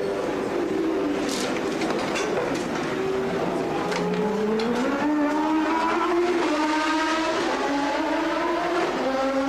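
Formula One car engines running, several pitches at once; about four seconds in one engine note rises as it is revved up, then holds. A few sharp clicks in the first couple of seconds.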